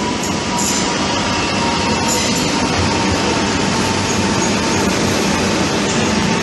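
A train rolling past at a station platform: a steady, loud rumble and rattle of wheels and cars, with a faint thin steady whine and a few light clicks over it.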